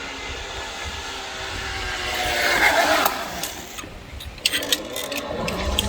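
Zipline trolley pulleys whirring along a steel cable in a steady whine that swells to a rush about halfway through, followed near the end by a run of sharp metallic clicks.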